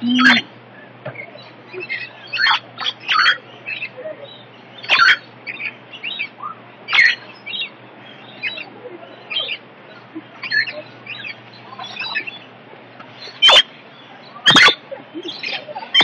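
Several birds chirping and squawking in short separate calls throughout. Near the end come two loud, sharp sounds about a second apart.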